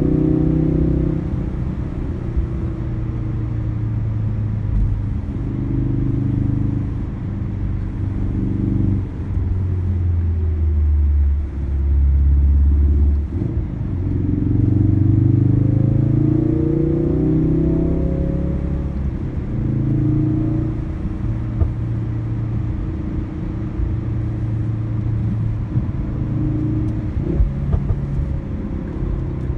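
A Ford Focus RS's turbocharged four-cylinder engine heard from inside the cabin, its note rising and falling as the car accelerates, shifts gears and slows for bends. The pitch drops low about a third of the way through, then climbs steadily again, over a steady rumble of road noise.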